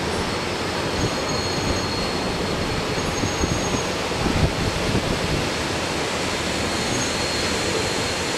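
Passenger train running along the track, heard from on board: a steady rushing noise of wheels and passing air, with faint high thin tones coming and going.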